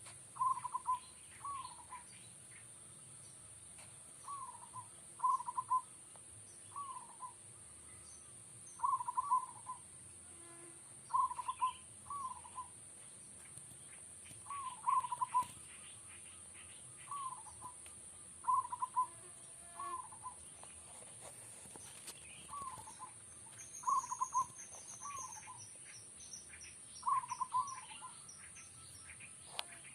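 Zebra dove (perkutut) cooing over and over, short soft phrases of two or three notes about every one to two seconds, with a steady high hiss behind it. A faint high twittering trill from another small bird comes in about three quarters of the way through.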